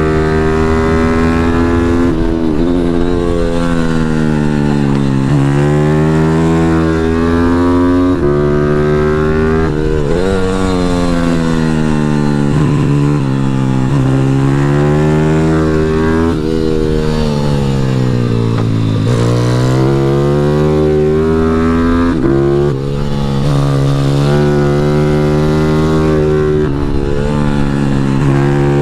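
Pit bike engine at full race pace on a flying lap, its pitch climbing hard through the gears and falling away under braking into each corner, about six times, over a steady rush of wind.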